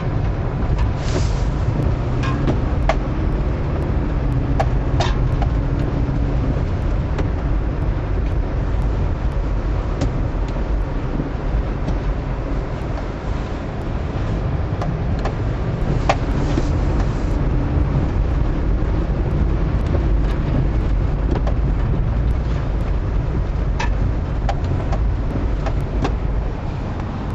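A vehicle running, a steady low rumble throughout, with a few light clicks scattered through it.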